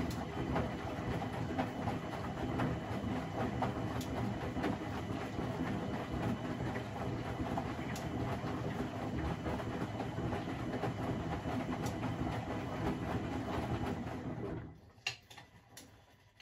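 Privileg 3001 S washing machine, a Zanussi build with a three-speed geared motor, running steadily with a faint click about every four seconds, then winding down and falling quiet near the end.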